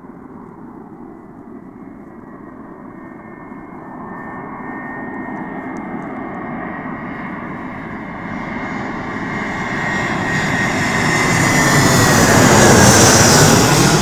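Airbus A321 airliner on landing approach, the jet noise and high whine of its twin turbofan engines growing steadily louder as it comes in. It is loudest near the end, where the whine drops in pitch as the plane passes.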